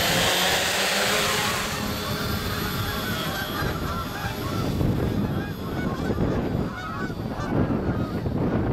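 A 750-size quadcopter's motors running as it lifts off and climbs away, its hiss fading after about two seconds. Wind then buffets the microphone, with many short bird calls scattered through it.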